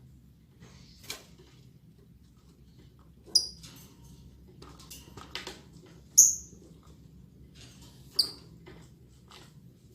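Lovebirds giving short, shrill, high-pitched calls: three loud ones about two to three seconds apart, with fainter clicks and rustling between them.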